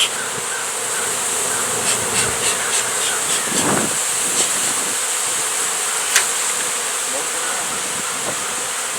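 Steady buzzing of a large honey bee colony stirred up as its nest in a buried tire is opened, with a few sharp clicks about two seconds in and one near the middle.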